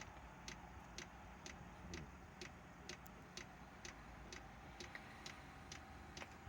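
Chinese diesel heater's fuel dosing pump ticking faintly and evenly, about twice a second, over a faint steady hum, during start-up before the heater has fired.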